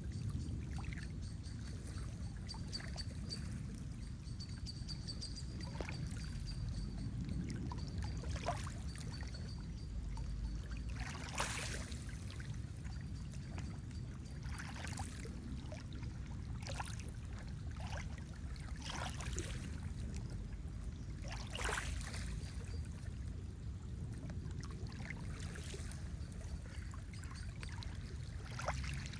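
Lake water lapping and gurgling, with a soft splash every few seconds over a steady low wash. A faint thin high tone comes and goes in the first half.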